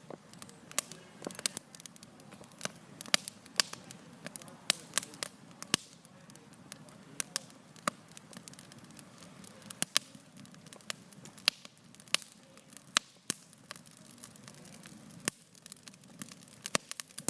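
Wood campfire crackling and popping, sharp irregular snaps every fraction of a second over a low hiss of burning.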